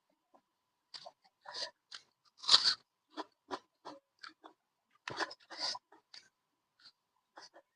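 A person chewing food: irregular crunching bites, the loudest about two and a half seconds in.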